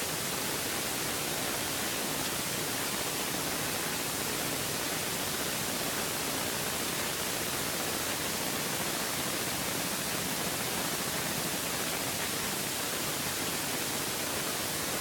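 Steady, even hiss like static, with no bangs or other distinct events.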